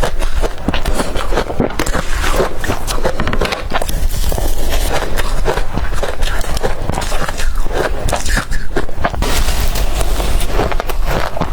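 Crushed blender ice being bitten and chewed close to the microphone, a dense, irregular crunching and crackling.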